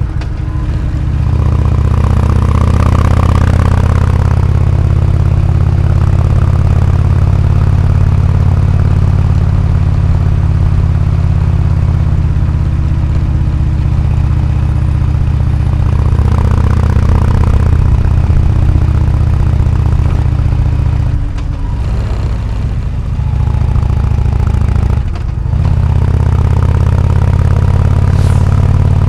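Harley-Davidson Road King's Twin Cam 103 V-twin running through an AMC HD4 aftermarket exhaust with a deep, steady note. It drops off briefly twice near the end before picking up again.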